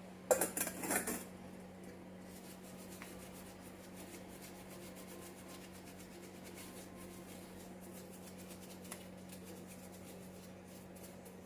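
A brief clatter of small metal carburettor parts knocking together about half a second in, then faint handling and rubbing sounds over a steady low hum.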